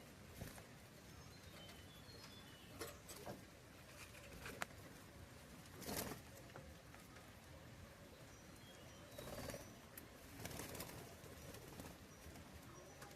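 Budgerigars chirping faintly in short high notes, with a few brief scuffing noises among them, the loudest about six seconds in.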